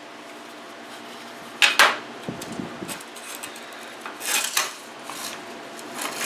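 Clicks and clinks of a mower's recoil starter being put back together, as the cord pulley is seated over the pin so its hook catches the rewind spring. One sharp click about a second and a half in is the loudest, followed by lighter knocks and rattles.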